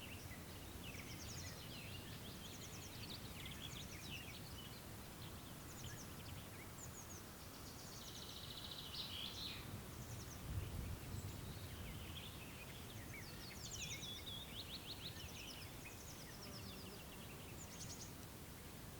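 Several small songbirds singing at once in quick, high-pitched trills and chirps that overlap throughout, over a low steady background rumble.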